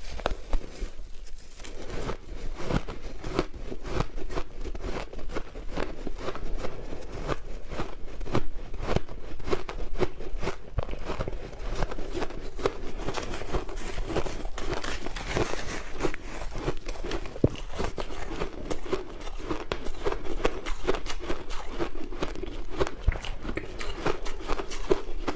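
Crushed ice being bitten and chewed close to the microphone: dense, irregular crunching that runs without a break.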